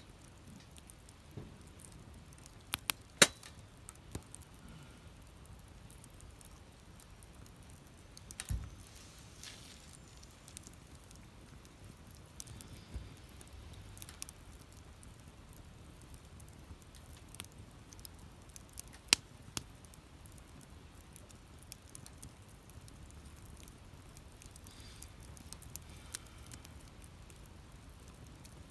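Wood fire burning, crackling with scattered sharp pops, the loudest about three seconds in and again about nineteen seconds in.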